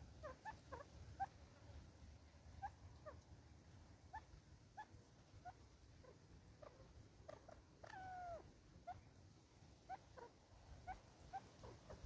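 Faint wild bird calls: a scatter of short, downward-slurred chirps, with one longer, drawn-out call about eight seconds in.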